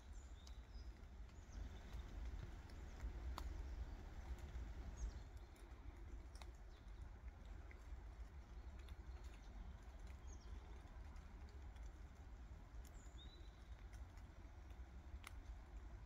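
Faint woodland ambience: scattered short, high bird calls, a few of them falling in pitch, over a low steady rumble, with occasional light clicks.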